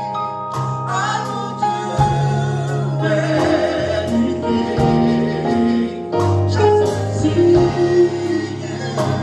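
Live gospel praise band playing with a choir and lead singers, with a steady bass line and a regular drum beat.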